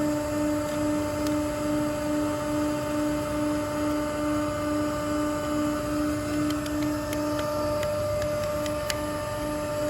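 Steady machine hum with a low pitched tone that pulses about one and a half times a second, with a few light ticks and clicks in the second half.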